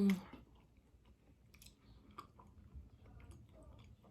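Close-miked chewing of seafood boil in sauce: faint, scattered wet mouth clicks and smacks.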